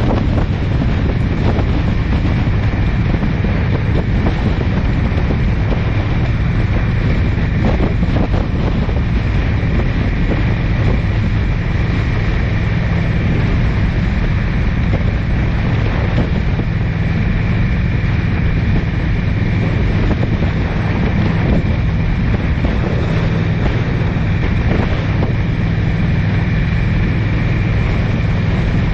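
Car driving along at a steady pace: the engine's even drone and road noise, with some wind on the microphone.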